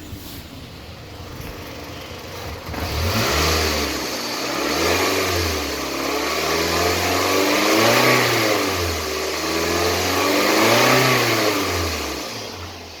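2006 Toyota RAV4 engine with 184,000 miles, idling at first and then revved up and down several times, each rev rising and falling in pitch before it settles back toward idle near the end.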